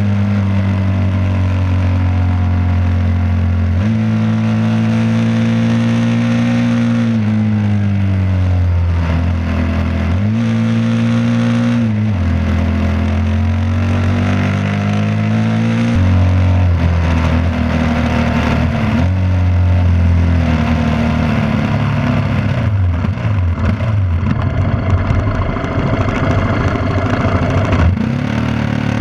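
Yamaha WR250R's 250 cc single-cylinder four-stroke engine running under way, its pitch holding steady for stretches and falling and rising again as the throttle is rolled off and on. Wind rushes over the handlebar-mounted microphone.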